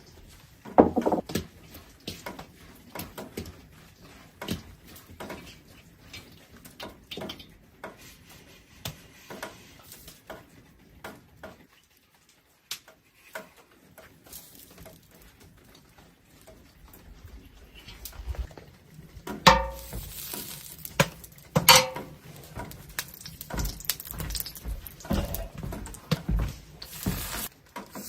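Kitchen handling sounds: scattered clicks and knocks of dishes, utensils and pans being moved about, with two louder ringing clanks about two-thirds of the way through.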